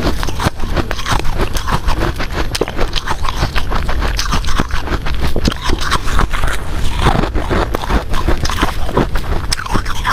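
Ice from a freezer being bitten and chewed, with rapid, irregular crunches and cracks close to the microphone.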